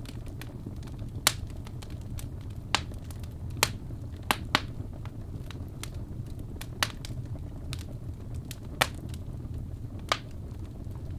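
Fireplace wood fire crackling: a steady low rumble of flames with irregular sharp pops, about eight of them louder than the rest.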